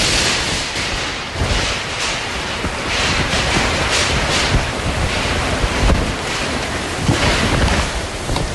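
Strong wind from a small tornado rushing and gusting, rising in repeated surges of hiss and buffeting the microphone with a low rumble.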